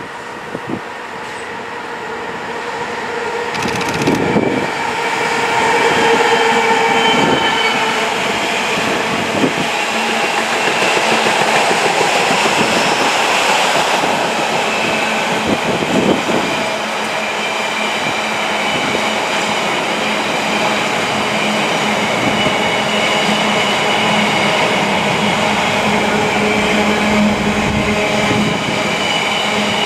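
Diesel locomotive hauling a container freight train, growing louder over the first few seconds as it approaches and passes. Then the steady rolling rumble and clatter of the loaded container wagons going by, with steady humming tones underneath.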